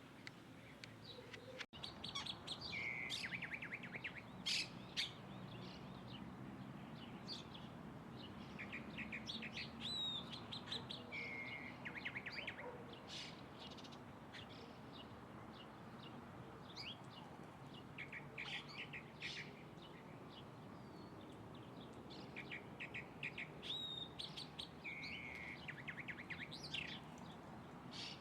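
Several birds chirping and trilling in quick, overlapping short calls, over a faint steady background hum.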